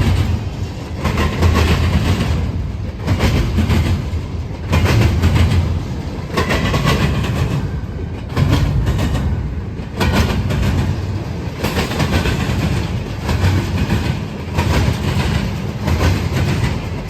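Railroad cars rolling past with a steady rumble and a repeated clickety-clack of wheels over rail joints, with occasional faint wheel squeal.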